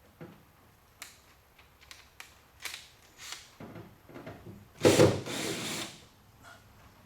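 Power drill briefly running to back out a screw, a burst of about a second near the end, after a run of light clicks and knocks.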